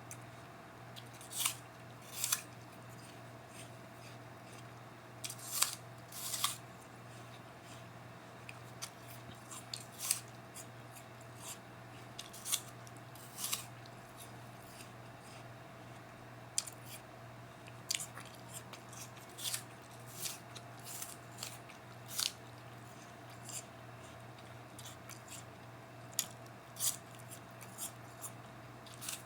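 Crunching of someone biting and chewing a crisp raw apple, in short crackly bursts at irregular intervals, over a steady low hum.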